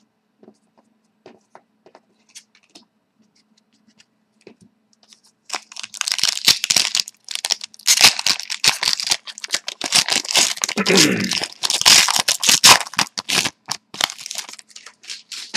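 Hockey card pack wrapper being torn open and crinkled by hand: a few light clicks, then from about five seconds in a long stretch of dense crackling and tearing.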